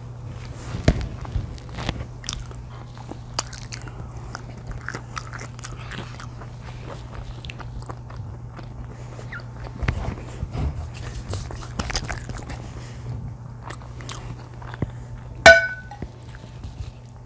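Close-up biting and chewing of pizza and cheese sticks, with irregular small crunches and smacks over a steady low hum. About fifteen seconds in there is a loud, sharp clink with a brief ring.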